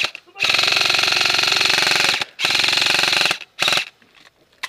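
Airsoft rifle firing full-auto in long bursts, a rapid buzzing rattle: one burst ending just as it starts, a long burst of nearly two seconds, another of about a second, and a short one near the end.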